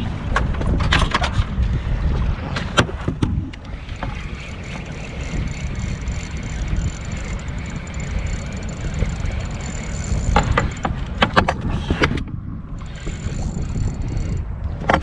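Wind buffeting the microphone as a steady low rumble on a kayak on open water. Clusters of sharp clicks and knocks come near the start, about three seconds in, and again about ten to twelve seconds in.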